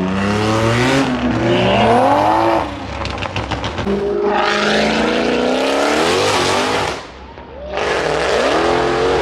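Car engines revving hard in three pulls, each rising in pitch, over tire squeal and skid noise. Between the first two pulls comes a quick run of rapid crackling pops.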